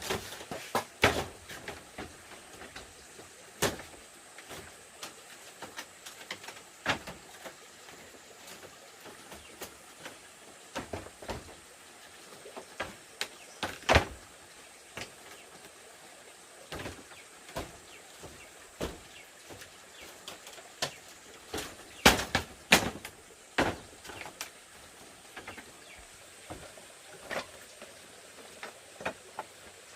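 Scattered light knocks and clicks at irregular intervals, as of objects being handled and set down, over a faint steady high hiss.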